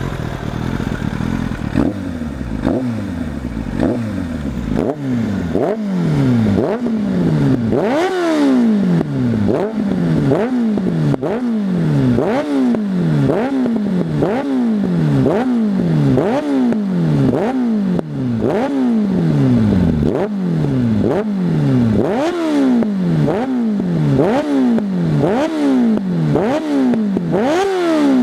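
Suzuki GSF 600 N's inline four-cylinder engine with an aftermarket exhaust, revved in quick throttle blips about once a second, each rev falling back, warm engine, with exhaust popping as the revs drop.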